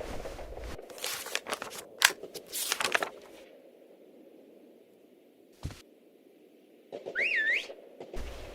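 Several sharp gunshot-like cracks in the first three seconds, the loudest about two seconds in. Then a lull with a single thump, and a short whistle sliding up and back down about seven seconds in.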